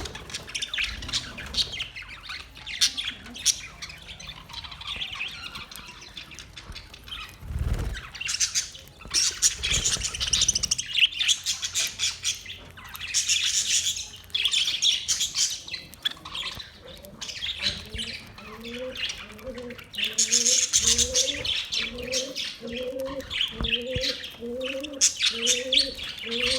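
A flock of budgerigars chirping and chattering without a break. From about two-thirds of the way through, a low short rising call repeats underneath, a little more than once a second.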